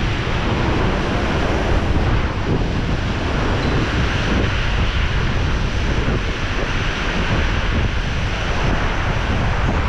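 Steady rush of wind buffeting the microphone on a moving motorcycle riding through heavy rain.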